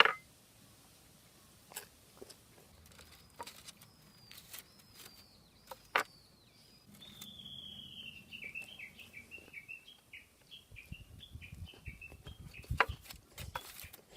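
A songbird singing: a few short high whistled notes, then a long rapid trill that falls slowly in pitch. Scattered sharp clicks, the loudest right at the start and near the end.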